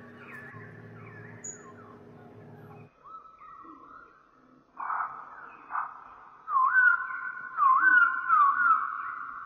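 Bird chirping, a run of short swooping whistled calls that get louder in the last three seconds. Under the first three seconds there is a steady hum that cuts off abruptly.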